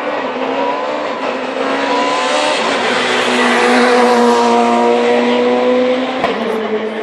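Rally car driven at speed past the listener, its engine note climbing over the first two seconds and then held. It is at its loudest about four seconds in, with tyre noise, and eases toward the end.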